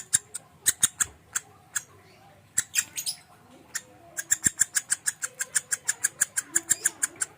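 Lovebird singing in the fast 'konslet' style: trains of sharp, rapidly repeated chips, about eight a second, broken by short pauses, then a long unbroken run from about four seconds in.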